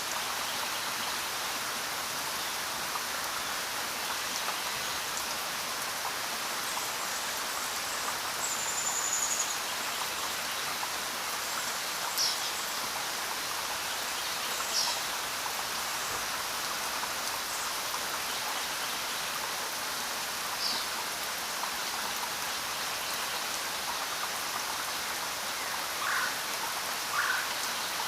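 Steady rainfall, a dense even hiss, with a few short high chirps scattered through it.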